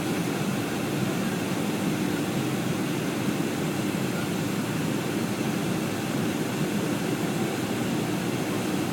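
Steady cabin noise of a Boeing 757-200 in flight: an even, low rush of jet engines and airflow, with no changes or distinct events.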